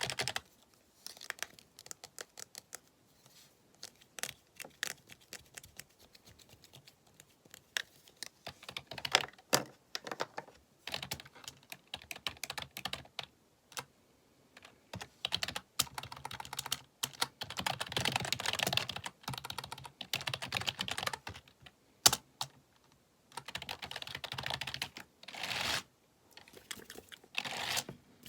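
Typing on a computer keyboard, the keys clicking in quick runs broken by short pauses, with one sharper single click a little past the middle.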